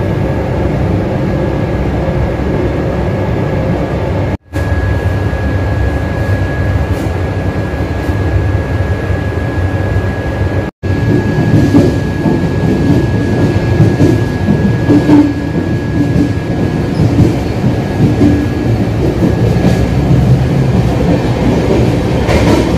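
Passenger train running, heard from inside the rear coach: a steady rumble of wheels on rail with rattling clatter. The sound drops out briefly twice at edits.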